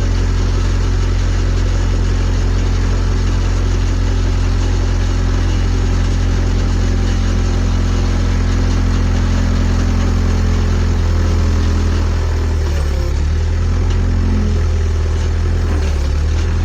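Skid steer engine idling steadily. About twelve seconds in, its pitch dips and wavers for a few seconds, then settles.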